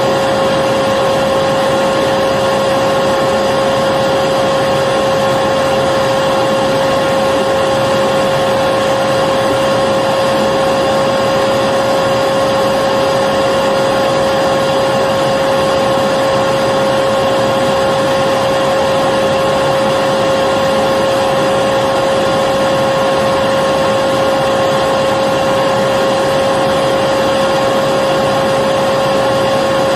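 Electric vacuum cleaner running steadily, a constant motor whine over a dense rushing hiss, with no change in speed.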